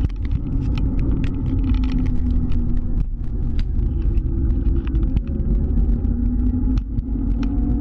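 Scooter being ridden, its motor's pitch dipping and rising again with speed under heavy wind rumble on the microphone, with frequent small clicks and rattles.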